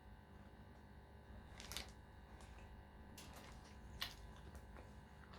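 Quiet close-up eating sounds: chewing with a few sharp mouth clicks and short crackles, the loudest click about four seconds in, over a low steady hum.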